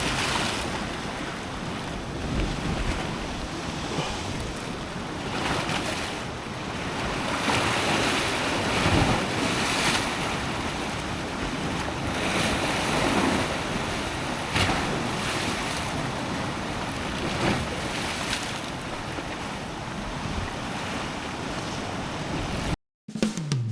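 Sea waves washing and breaking against shore rocks, rising and falling in slow surges, with wind buffeting the microphone; the sound cuts off abruptly near the end.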